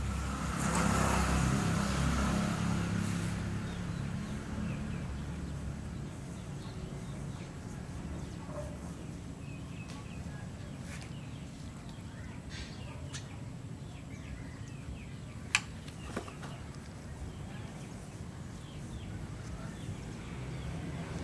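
Steady low background rumble, a little louder in the first few seconds, with one sharp click about fifteen seconds in and a fainter one just after.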